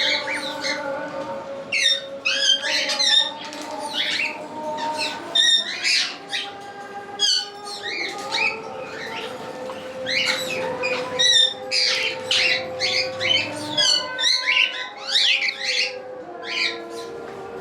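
Many cockatiels calling at once in an aviary: a dense, continuous chorus of short shrill squawks and chirps, many of them sliding up or down in pitch.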